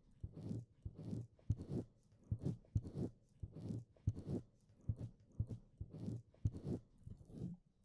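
Close, wet licking of a binaural dummy-head microphone's ears: a run of short wet smacks and slurps, about two a second.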